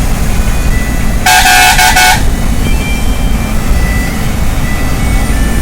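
Steady low rumble of a travelling bus, with a vehicle horn honked a little over a second in: a burst of about four short toots lasting under a second.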